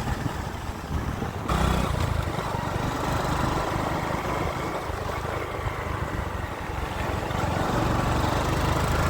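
A vehicle engine running with road and wind noise while travelling, steady throughout, stepping up suddenly in loudness about a second and a half in.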